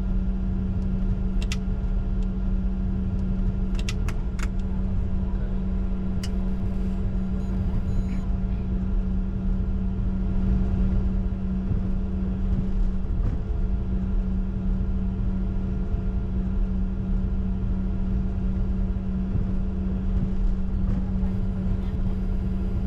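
Cockpit noise of a Bombardier Challenger 605 taxiing after landing, its two CF34 turbofans at idle: a steady hum over a deep rumble, with a few brief clicks in the first six seconds.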